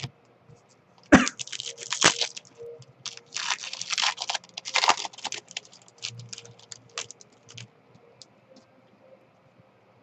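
Trading cards and their pack wrapper being handled: bursts of crinkling and quick clicks as cards are slid and flipped, busiest in the middle and thinning out near the end.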